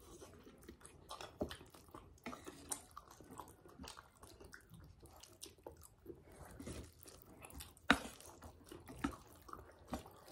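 Noodles being eaten with chopsticks: scattered soft slurps, chewing and small clicks, with one sharper click about eight seconds in.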